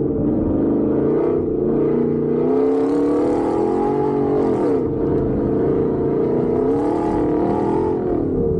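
Truck engine driven hard on a dirt course, its pitch rising and falling as the throttle is pressed and lifted, with a sharp dip about halfway through and another near the end. Bursts of hiss from loose dirt and gravel under the tyres come and go.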